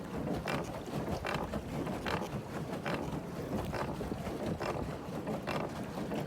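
Wind rumbling on the microphone, with water splashing or lapping against a small boat in short bursts about every second.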